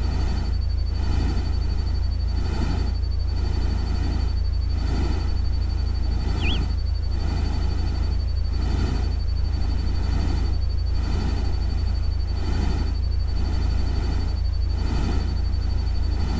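Synthesized ambient nature-sound bed: a steady deep rumble under a hiss that swells and fades about every 0.8 s, with a thin steady high whine. A single short chirp comes about six and a half seconds in.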